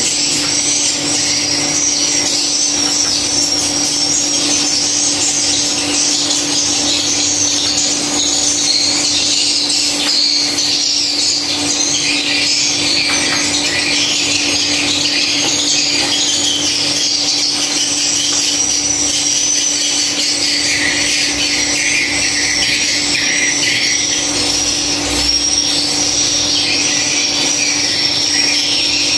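Dense, continuous high twittering of many swiftlets, with a steady low hum underneath.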